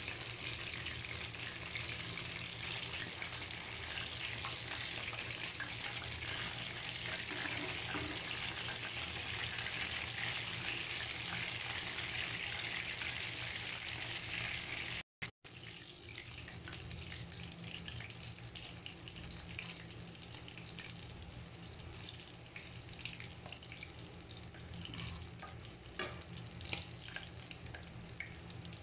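Chicken wings frying in a pan of hot oil: a steady sizzle that cuts out briefly about halfway through, then goes on quieter with scattered crackling pops.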